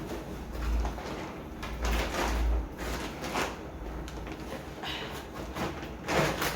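Handling noise from unpacking groceries: several short rustles and soft knocks as packaged items are moved and set down.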